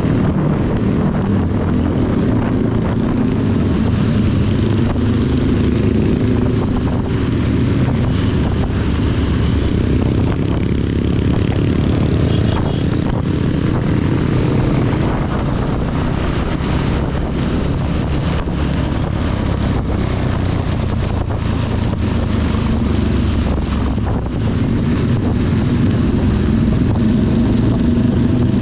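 Honda CB 250 motorcycle engine running steadily under way, under a dense hiss of heavy rain, wind and wet-road tyre noise. The engine note shifts up and down a little around the middle.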